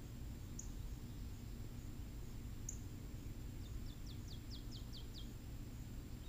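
A small bird chirping: two single high chirps, then a quick run of about seven short falling notes about four seconds in, over a steady low outdoor rumble.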